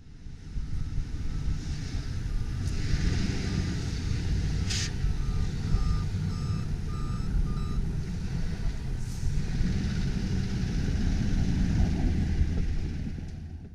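Pickup truck engine running steadily, with a reversing alarm beeping about six times midway through, and a single click in the middle.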